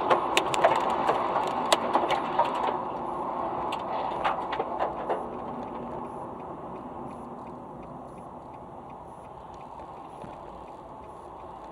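Car cabin and road noise that fades steadily. Several sharp clicks and knocks come in the first three seconds, then a faint regular ticking at about one and a half ticks a second.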